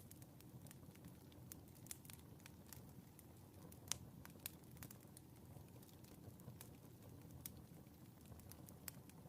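Wood fire in a fireplace crackling faintly, with scattered sharp pops over a low steady rumble; the loudest pop comes about four seconds in.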